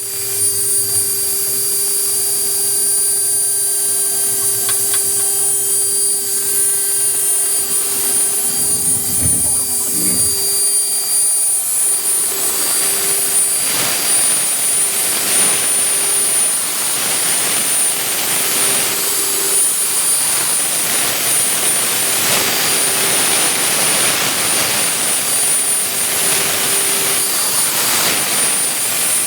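Vertical 3-axis CNC milling machine running: a steady machine whine and hiss from the spindle, growing rougher and more uneven from about twelve seconds in as it cuts.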